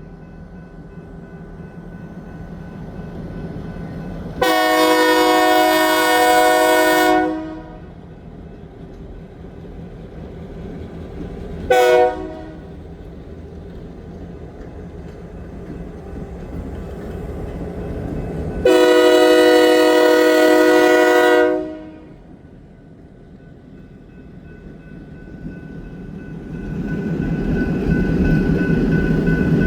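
Diesel locomotive's horn sounding three blasts: long, short, long. Between the blasts the locomotive's engine rumbles, and it grows louder near the end as the train gets under way.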